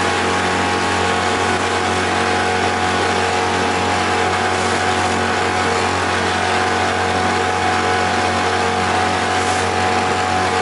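Freshly overhauled outboard motor running steadily at cruising speed, with a constant engine hum over a hiss of wind and water.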